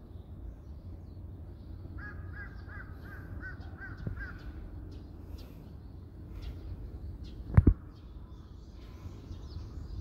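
A bird calling: a quick run of about eight short, harsh notes, about three or four a second, over a steady low rumble. A single loud thump comes about three quarters of the way through.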